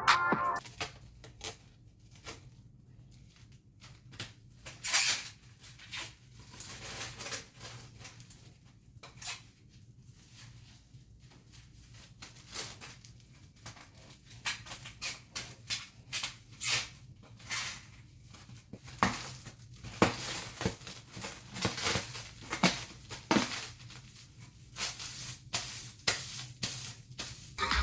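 Irregular small clicks, taps and light knocks of objects being handled, busier in the second half, over a faint low steady hum.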